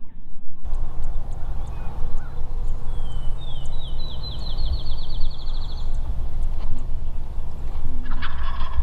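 A songbird sings a trill of rapid high notes that speed up and rise slightly, lasting about three seconds in the middle, over a steady low rumble of wind on the microphone.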